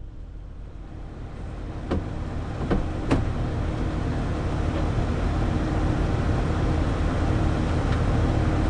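New Holland 8770 tractor cab with the engine idling in a steady low hum, while a rushing blower fan grows steadily louder. Three sharp clicks come at about two to three seconds in.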